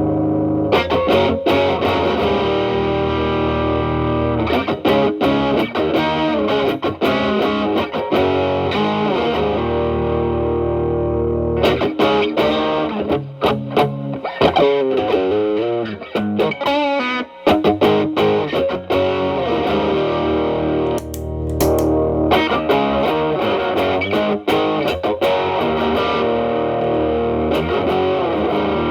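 Electric guitar (Telecaster) played through an Xotic BB overdrive pedal with its gain at maximum into a Marshall Valvestate's clean channel: distorted chords left to ring, and single-note licks with bent, wavering notes. There are brief breaks in the playing about two-thirds of the way through.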